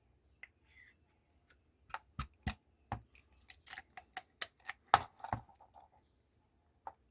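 Metal parts of a small cast-iron table vice clicking and knocking together as it is put back together by hand: a scattered run of sharp taps, most of them in the middle.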